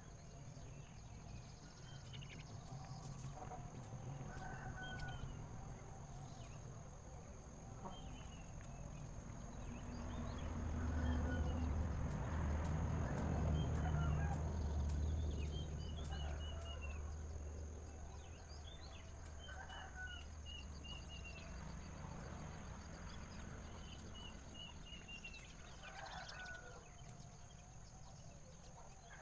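Small birds chirping in short high notes, some in quick falling series, scattered throughout, with domestic chickens clucking and crowing in the background. A low hum swells up about a third of the way in and fades away again.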